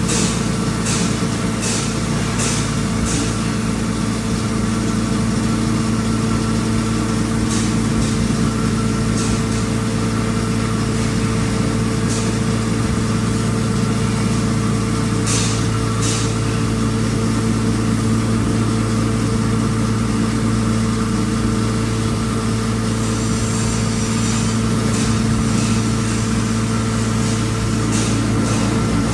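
A 3 HP electric coriander grinding machine running steadily, a constant motor hum with occasional sharp ticks.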